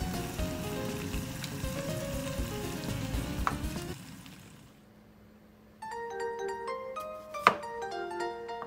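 Squid and red paprika sizzling in oil in a frying pan, under light background music, fading out about four seconds in. After a short near-silent gap the music returns alone, with one sharp knock near the end.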